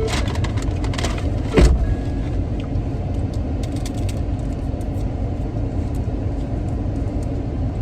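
Steady low rumble of an idling car heard from inside the cabin, with a few light clicks in the first second and a single loud thump about a second and a half in.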